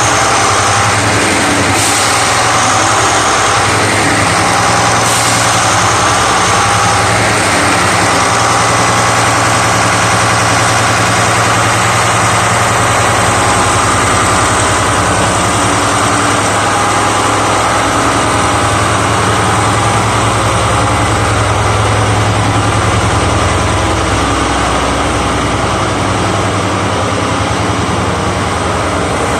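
Diesel generator engine of the E001 series Train Suite Shiki-shima idling steadily with a deep, even hum, just started so the train can switch from electric to diesel running after lowering its pantograph. It gets slightly quieter in the last few seconds.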